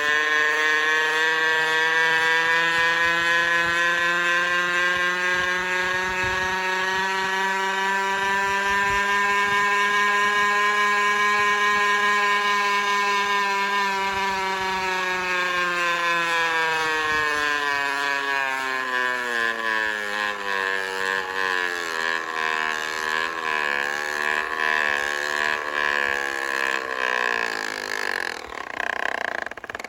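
Water bottle jammed in a fat-tyre mountain bike's wheel, buzzing loudly as the wheel turns, much like a two-stroke motorbike engine. The pitch holds fairly steady, then falls and wavers over the second half as the bike slows.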